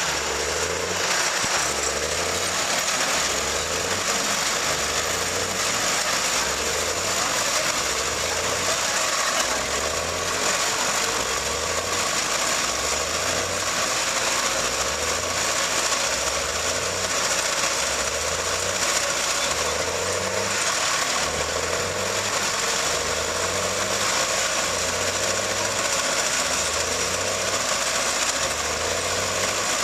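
Tractor engine running steadily under load, hauling a dump trailer loaded with gravel through mud, with a low pulsing about once a second.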